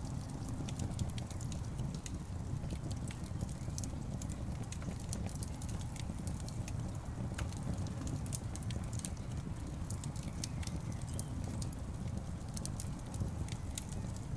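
Wood logs burning in a fireplace, with many sharp crackles and pops over a low, steady rumble of the flames.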